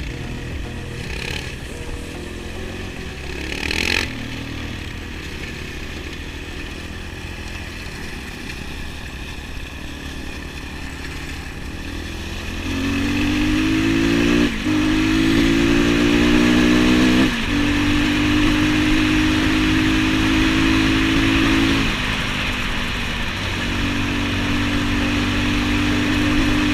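Small motorcycle engine running at a low, even pace, then from about halfway getting louder and climbing in pitch as the bike accelerates, with two sudden drops in pitch as it changes gear, before running on more steadily.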